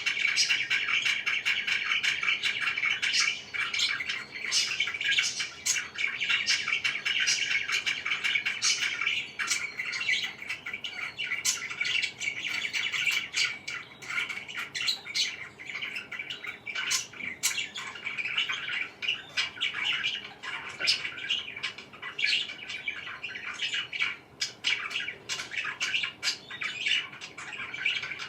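Pet parakeets chirping and squawking in a continuous dense chatter, with many short sharp calls over it.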